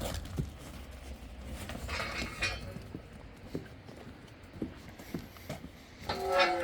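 Sheep shifting about in a handling pen, with scattered hoof knocks and shuffling.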